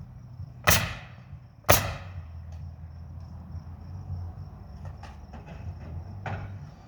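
Pneumatic nail gun firing twice, about a second apart, driving nails into siding. Fainter knocks and clicks follow near the end over a steady low hum.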